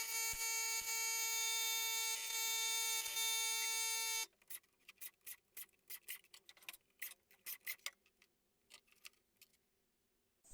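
A steady electric whine from a power tool's motor runs for about four seconds and cuts off suddenly. Scattered light clicks follow as the crankcase bolts of a Honda CB750 engine are worked loose.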